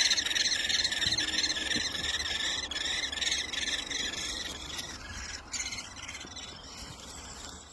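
A brood of great spotted woodpecker nestlings begging in the nest: a continuous, high-pitched chittering from many chicks at once. It thins out in the last couple of seconds and cuts off.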